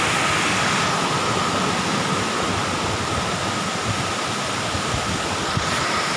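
Tall waterfall, about 50 metres high, with water falling and crashing in a steady rushing noise.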